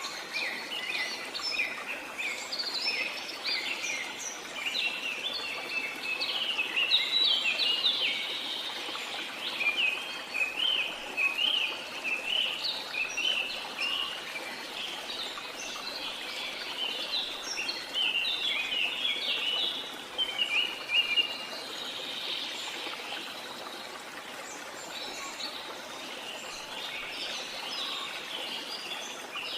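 Many birds chirping and trilling in a dense chorus over the steady rush of a jungle waterfall. The calls thin out in the last few seconds.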